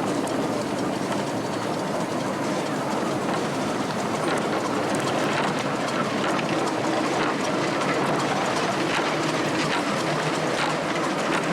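Miniature railway train running along the track: a steady rumble with light scattered clicks from the wheels on the rails.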